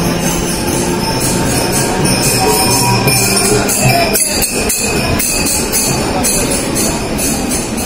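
Steady running noise of a Mumbai suburban local train, with rhythmic metallic jingling over it, a few strokes a second, and a few knocks about four to five seconds in.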